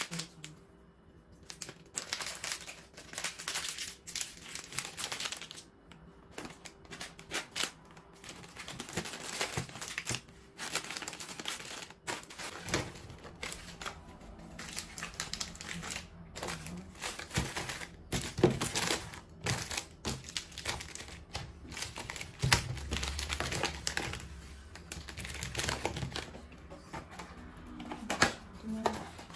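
Plastic food packets crinkling, with irregular clicks and knocks as packages and containers are handled and set down.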